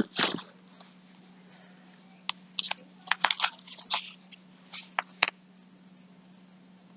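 Packaging crinkling and rustling in a string of short bursts from about two seconds in until just past five seconds, over a faint steady hum.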